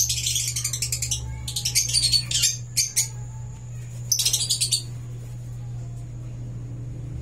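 Lovebirds chattering in about five bursts of rapid, high-pitched chirps over the first five seconds, with a steady low hum underneath.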